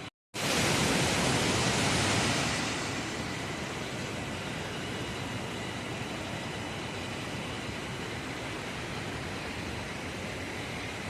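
Steady rushing noise of flowing water, starting abruptly just after a brief dropout, loudest for the first two seconds or so, then settling to an even, slightly quieter rush with a faint steady high tone.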